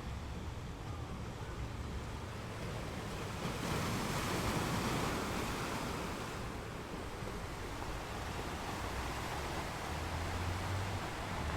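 Ocean surf washing on a beach: a steady hiss of water, with one wave swelling up about three and a half seconds in and subsiding a few seconds later.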